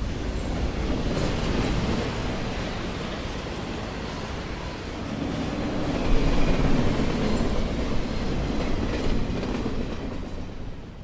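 A train passing, a steady rumbling rush of noise that grows louder about six seconds in and fades out near the end.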